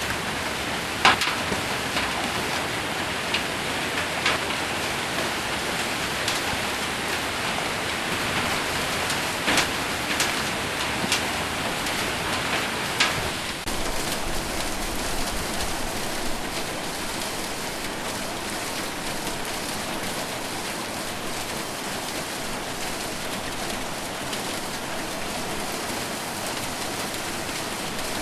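Rain falling steadily on a metal roof, with a few sharp, separate hits in the first half, the hardest about a second in, before the sound settles into an even wash.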